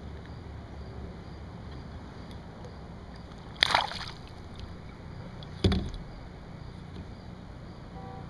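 Two sharp knocks about two seconds apart in a kayak, the second with a low thud, over a steady low background noise.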